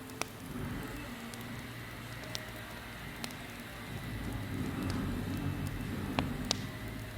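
Campfire burning: a steady low rush of flames, swelling a little about halfway through, with a few sharp crackling pops of burning wood.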